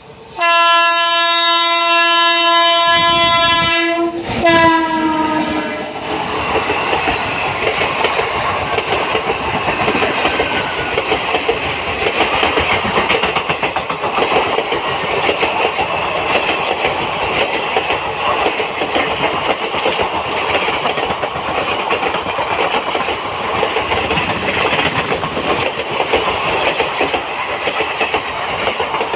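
WAP-7 electric locomotive's horn sounding for about four seconds, its pitch dropping as the locomotive passes, then the steady rumble and wheel clatter of the express's coaches passing.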